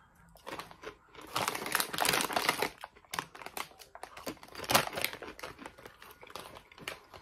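Crunching and chewing of Piattos potato crisps close to the microphone: dense runs of sharp crackly clicks, heaviest between about one and a half and two and a half seconds in, with another hard crunch just before five seconds.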